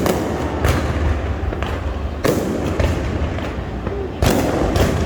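Fireworks bursting overhead in a string of sharp bangs. About four seconds in, a louder, denser volley of rapid bangs begins.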